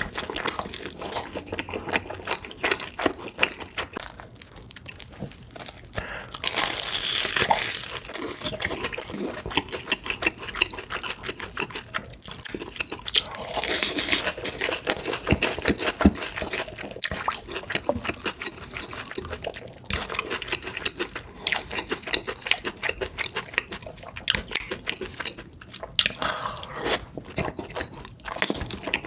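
Close-miked eating sounds: continuous wet chewing and crunching, with two longer slurps about a third and halfway through.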